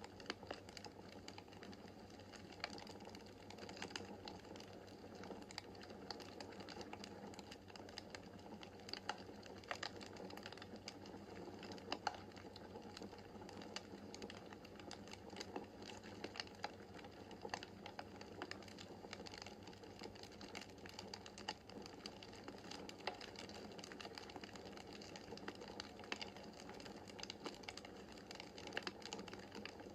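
Wood fire crackling in a fireplace: irregular small snaps and pops over a steady soft hiss, with a sharper pop about twelve seconds in.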